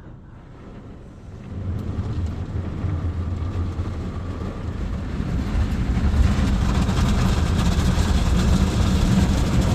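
Ryko Softgloss XS2 rollover car wash running, its foam brushes turning against the car: a low, steady mechanical rumble that starts about one and a half seconds in and grows louder and busier about five seconds in.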